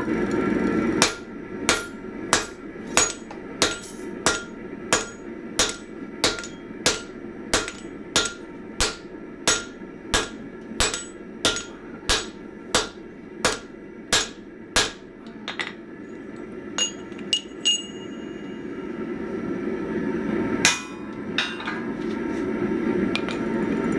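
Hand hammer striking hot 1045 steel on an anvil, drawing out the ears around a hiking ax's eye. It lands a run of about twenty even blows, roughly one and a half a second, each with a short metallic ring, then a few lighter taps. Near the end a steady low rushing noise comes back, with one more hard blow.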